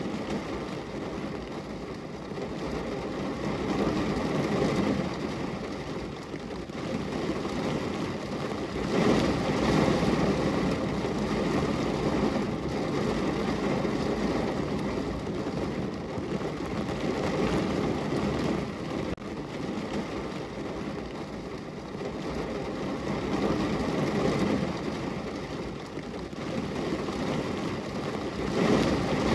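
Steady rain on a window, a continuous hiss that swells and eases every few seconds.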